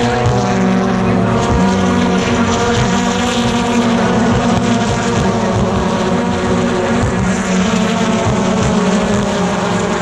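BTCC touring cars' turbocharged 2.0-litre four-cylinder engines running at race speed. Several engine notes overlap in a loud, steady blend.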